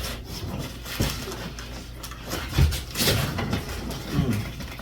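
Handling noise from unpacking: scattered knocks and rustling as bike parts are pulled at inside the box and packaging, with sharper knocks about a second in and around three seconds in.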